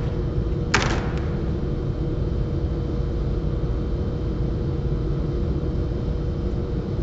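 A single sharp knock about a second in, with a faint second tap just after, over a steady low rumble and hum.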